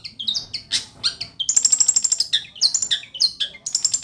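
Long-tailed shrike (cendet) singing: a quick run of short, varied whistled notes that jump in pitch, then fast rattling trills about a second and a half in and again near the end.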